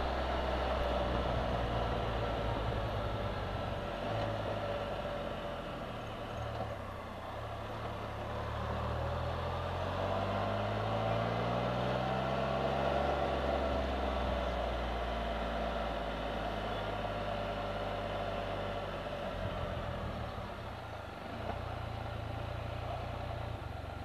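Can-Am Spyder three-wheeled motorcycle engine running under way at low speed, its pitch rising through the middle as it picks up speed and falling again as it eases off, with a brief dip near the end.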